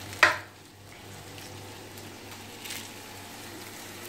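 A short, sharp crinkle of plastic noodle packaging about a quarter-second in, the loudest sound here, then the steady low hiss of an onion-tomato masala simmering and sizzling in oil in a pan.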